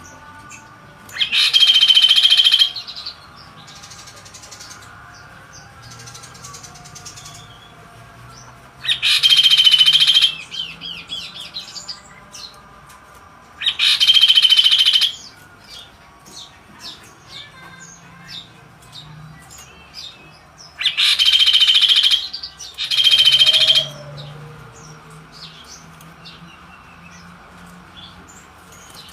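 Kaso-kaso songbird singing in loud bursts of about a second or so, five times, with faint chirps between.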